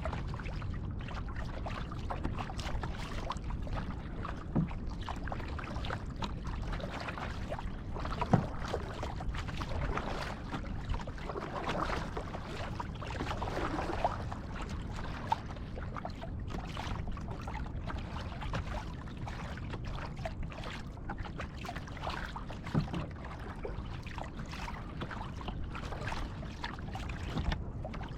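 Kayak paddling: water sloshing and dripping from the paddle strokes over a steady low rumble, with a few short sharp knocks spread through.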